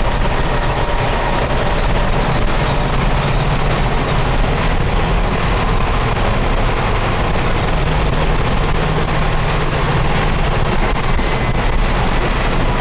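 Cab noise of a 1967 Toyota FJ45 pickup cruising under way: the fuel-injected Chevrolet 350 small-block V8 running steadily, mixed with road noise.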